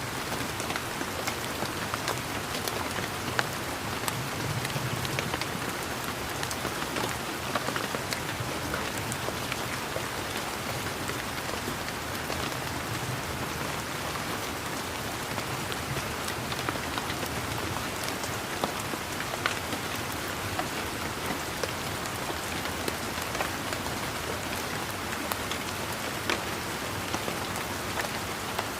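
Steady rain falling, an even hiss with many scattered, sharper drop ticks.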